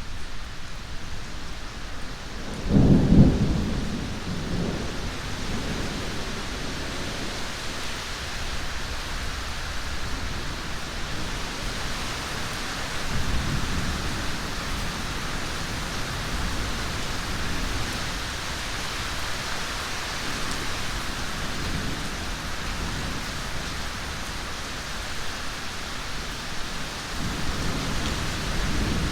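Heavy rain falling steadily, with a loud clap of thunder about three seconds in that rolls on in low rumbles, and fainter rumbles of thunder later and near the end.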